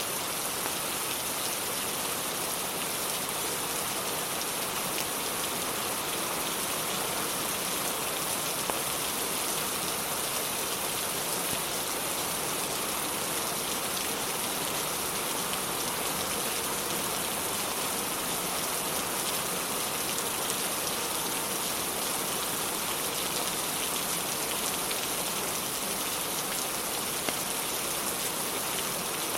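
Steady heavy rain falling, an even hiss without let-up, with a couple of brief clicks or pops.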